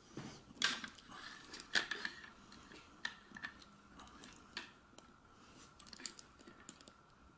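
Plastic clicks and knocks of hands handling a posable action figure and its clear plastic display stand: two louder knocks about half a second and two seconds in, then scattered lighter clicks.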